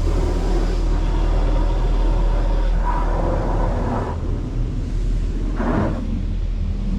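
High-pressure water from a touchless car wash's rotating spray arm hitting the car, heard from inside the cabin as a loud, steady hiss over a low rumble, swelling briefly about three and six seconds in.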